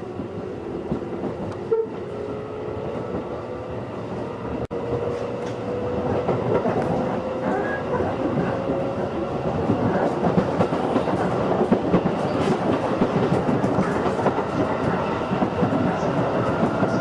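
211 series electric train heard from inside a passenger car, picking up speed: a whine rises slowly in pitch while the running noise and clatter of the wheels over the rails grow louder.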